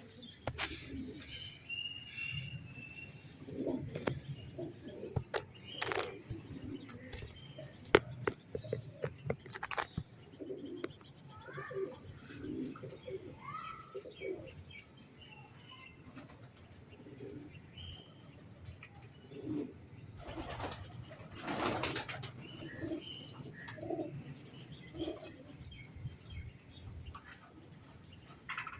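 Domestic pigeons cooing again and again, with bursts of wing flapping about twenty seconds in and scattered sharp clicks, the loudest about eight seconds in. Other small birds chirp now and then.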